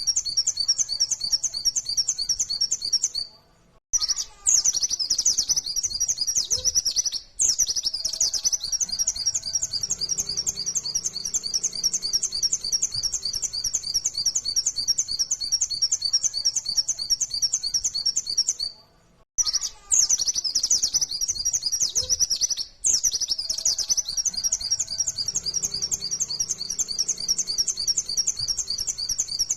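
White-eye (pleci) singing a fast, unbroken stream of high chirps, the rapid-fire 'nembak' song. The stream breaks off briefly a few times, about 4 s and 7 s in and again about 19 s and 23 s in.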